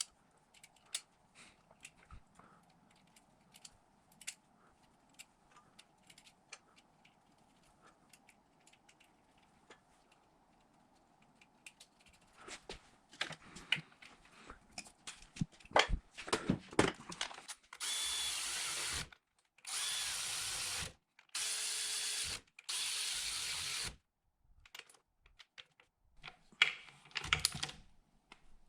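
A power drill-driver runs in three short bursts of about a second each, about two-thirds of the way in, driving fasteners. Before and after, there are light clicks and knocks of small hardware being handled.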